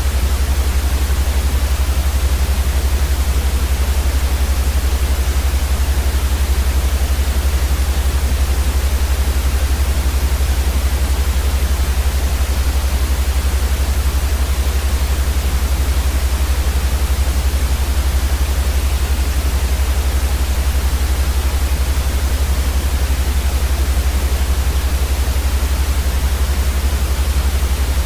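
Steady, unchanging white noise: an even hiss across the whole range, with a heavy low rumble beneath it.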